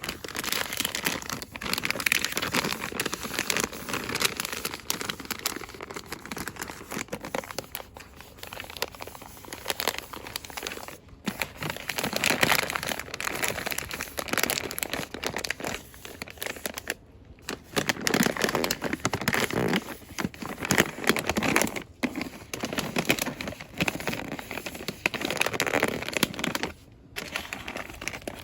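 Fast, aggressive crinkling and rustling of cosmetics and soap packaging being handled, in dense bursts broken by a few brief pauses.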